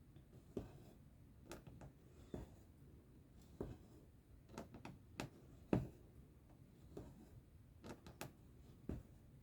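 Soft, irregular clicks and taps of cross-stitching by hand: a needle pushed through fabric and the thread drawn after it, about one or two a second, with one sharper tap a little past halfway.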